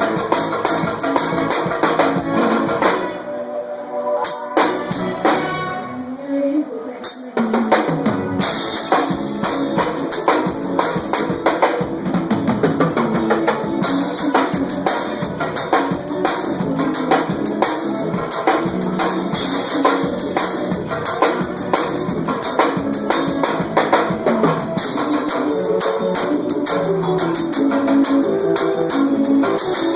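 Forró band playing, with a drum kit (bass drum and snare) driving a steady beat. A few seconds in, the drums drop out briefly while the melody carries on, then the full band comes back in.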